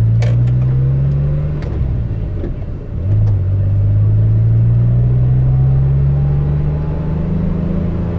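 1981 DeLorean DMC-12's PRV V6 with an upgraded aftermarket exhaust, heard from inside the cabin while accelerating. The engine note rises, drops with a gear change about two to three seconds in, then climbs steadily again in the next gear.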